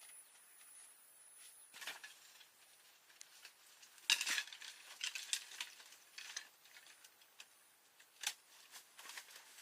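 Scattered light knocks and clinks of hard objects being handled, with a short cluster about four seconds in and single knocks about two and eight seconds in.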